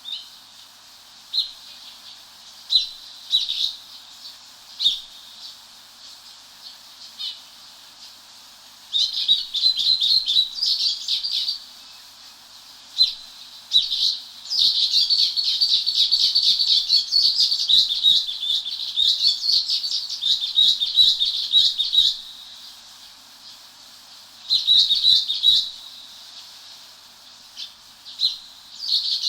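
Wild birds calling and singing in high-pitched voices. Scattered short notes come first, then long runs of rapid chattering notes, the longest lasting about seven seconds in the middle, with shorter runs near the end.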